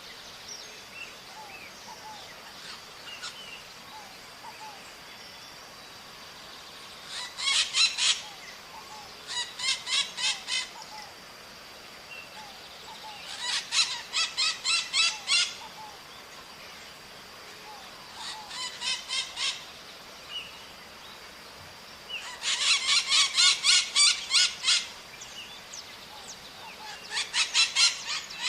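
Maritacas (small Brazilian parrots) screeching in quick runs of harsh calls, about five a second, in six bouts with short gaps between them.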